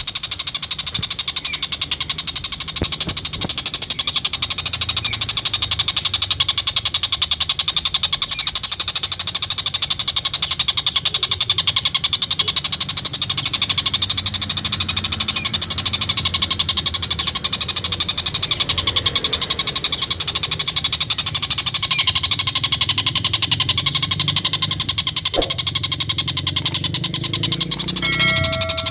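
Tengkek buto (stork-billed kingfisher) giving its continuous rapid cackling 'ngekek' call, a very fast, unbroken run of sharp notes. A brief steady tone comes near the end.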